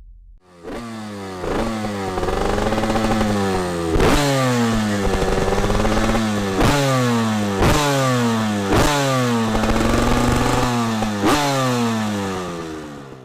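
A 1999 Honda CR125's two-stroke single-cylinder engine being revved repeatedly. The pitch jumps up with each throttle blip, about six times, then falls away as the revs drop.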